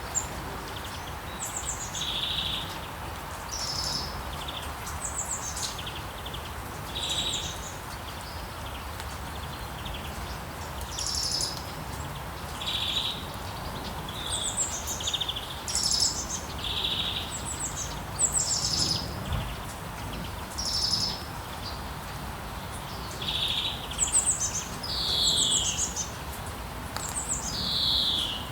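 Songbirds chirping and calling over and over, several short high calls a second, with a few falling sweeping notes near the end, over a steady soft background hiss.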